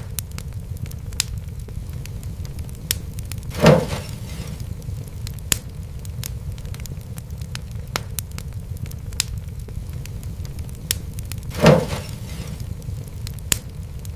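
Fireplace wood fire crackling over a steady low rumble, with scattered sharp crackles and two louder pops, one about four seconds in and one near the end.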